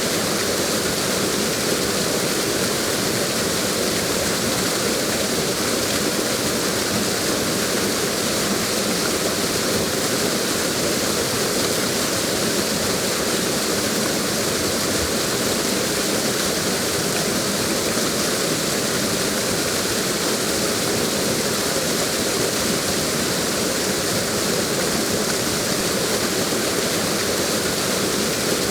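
Steady rushing of a waterfall: an unbroken hiss of falling water that holds its level throughout.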